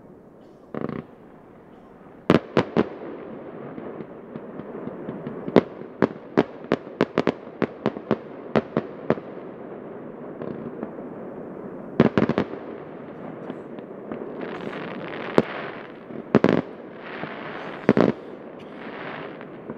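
Aerial fireworks display: shells bursting with sharp bangs, including a quick run of about a dozen reports a few seconds in, and stretches of crackling near the end.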